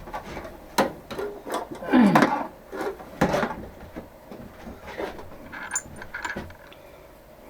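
Clicks, knocks and short scrapes of metal parts and tools being handled and set in a bench vise, busiest in the first half and thinning out toward the end.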